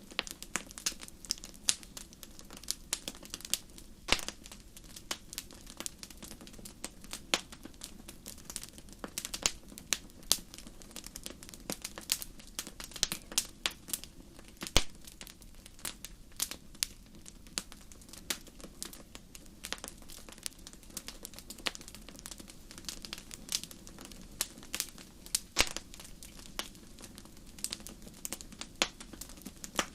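Wood fire burning in a fireplace: frequent, irregular sharp crackles and pops over a low, steady rumble.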